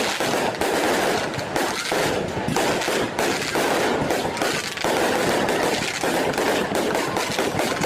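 Fireworks display going off in a rapid, nearly continuous barrage of bangs and crackles.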